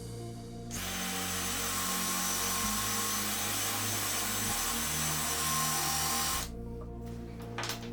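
A power tool runs steadily for about five and a half seconds, starting just under a second in and cutting off abruptly, over background music.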